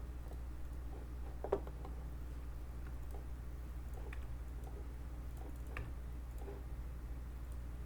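A few scattered computer mouse clicks, a second or more apart, over a steady low electrical hum.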